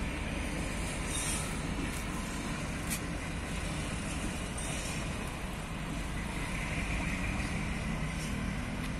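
G22UB diesel locomotive hauling a single hopper wagon away along the track: a steady low rumble of the engine and the wheels on the rails.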